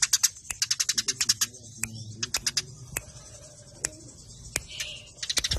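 Eurasian tree sparrows chirping in quick, sharp runs, the agitated chatter of sparrows fighting. The chirps come thick at the start and again near the end, and sparser in between.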